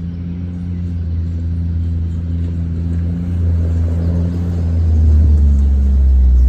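Small engine running with a steady low hum that grows louder and drops slightly in pitch about five seconds in.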